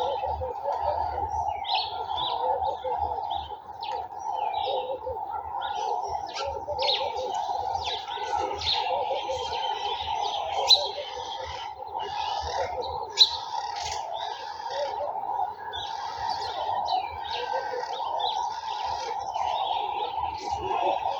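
Garden birds chirping and calling continuously in a dense, overlapping chorus, over a steady lower drone. Two sharp clicks sound near the middle.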